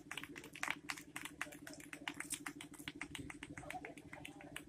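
Faint, scattered hand-clapping from a small audience: irregular claps, several a second, over a steady low electrical hum.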